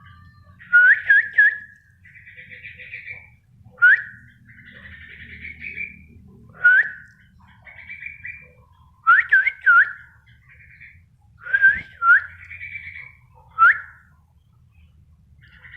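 A caged bulbul (trucukan) singing steadily: loud, short up-swept whistles, often two or three in quick succession, repeated every couple of seconds, with softer warbling chatter between phrases.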